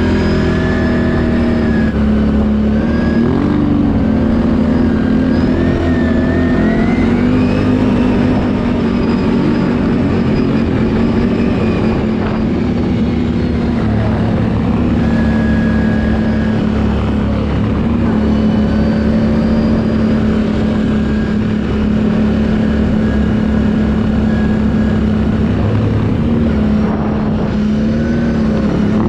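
Can-Am ATV engine running at a steady throttle under way, its note holding with small rises and dips in pitch, over a dense low rumble.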